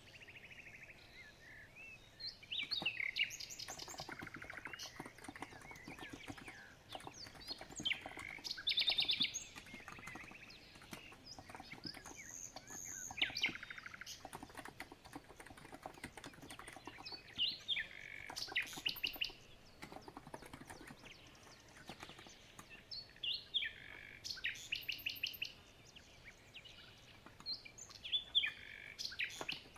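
Small birds chirping and trilling in repeated short phrases, over a steady patter of soft keystrokes from a COX Empress electro-capacitive keyboard being typed on.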